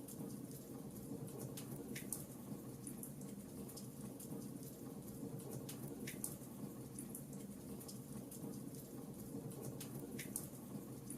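Wood fire crackling: irregular small crackles, with three louder pops about four seconds apart, over a steady low rumble.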